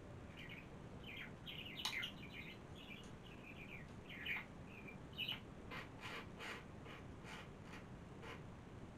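Small birds chirping faintly: a run of quick twittering notes, then a string of short sharp notes, about four a second, that stops shortly before the end.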